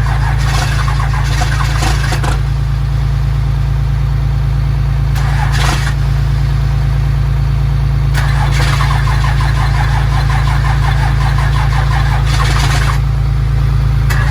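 Cummins diesel engine running steadily with a deep, even note, with a rush of higher-pitched noise laid over it three times, the longest lasting several seconds.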